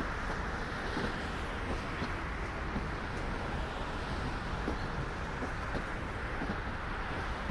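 Freight train cars rolling past: a steady rumble and hiss of steel wheels on rail, with scattered short clicks from the wheels.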